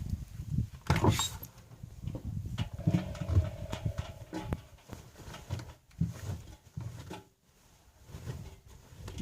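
Privileg Sensation 9245 washing machine running, with irregular low thumps and rumbles and scattered clicks, and a short whine about three seconds in.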